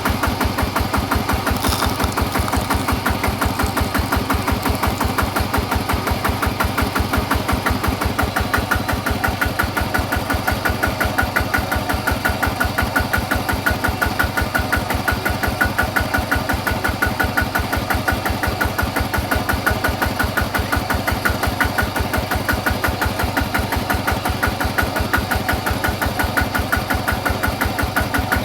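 Small engine running steadily, with an even, rapid beat.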